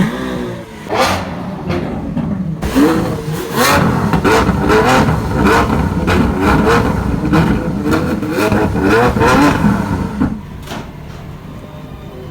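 Lamborghini Aventador's V12 engine revved hard again and again, its pitch climbing and falling back many times in quick succession, then dying down near the end.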